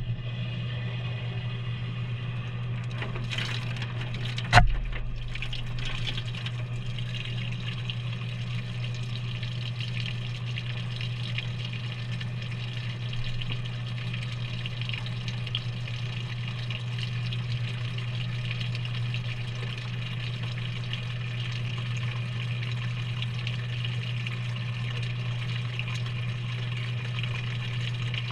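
Maytag front-loading washing machine filling with water at the start of a delicate cycle, heard from inside the drum: water spraying and running in steadily over a constant low hum. There is a single sharp knock about four and a half seconds in, after which the water noise holds steady.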